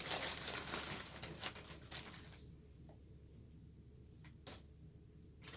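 Small amethyst chips being sprinkled on: a rustling patter for about two and a half seconds, then a few light clicks as pieces land or are set down.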